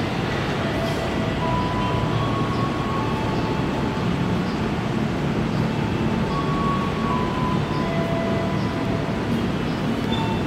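Electric commuter train approaching slowly through the station's curved tracks: a steady rumble of wheels and running gear, with short high-pitched squeals now and then.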